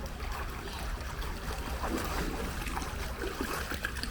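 Pool water splashing and sloshing around a person exercising in it, with rain falling and a steady low rumble underneath.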